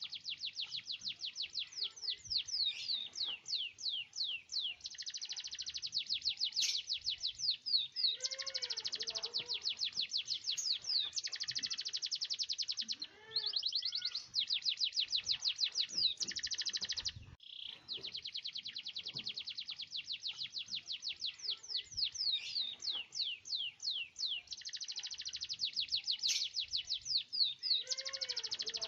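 Canary singing long rolling trills: fast, unbroken strings of high repeated notes that change pace from phrase to phrase, pausing briefly twice near the middle.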